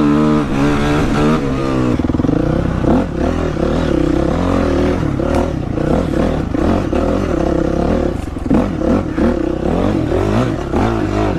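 Dirt bike engine revving under throttle, its pitch climbing over the first two seconds, then rising and falling again and again as it is ridden.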